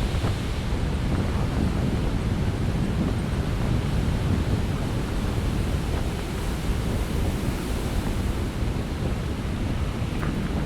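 Heavy winter storm surf breaking continuously, with strong wind buffeting the microphone.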